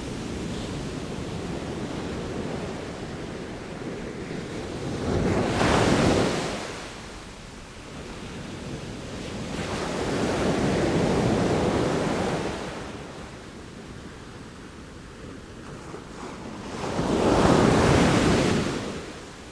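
Ocean waves breaking on a shore, three swells building and washing out about every six seconds, with a steady wind.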